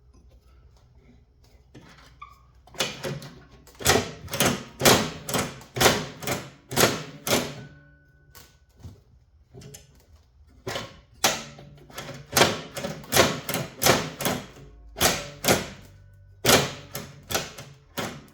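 Metal struck repeatedly, about two sharp knocks a second, each with a short ring. The knocks come in two runs with a pause of a few seconds between them.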